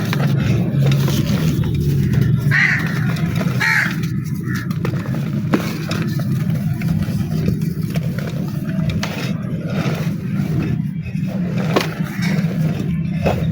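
Dry, crumbly black mud crunching and crackling as it is crushed, in scattered small cracks over a steady low hum. A crow caws twice a few seconds in.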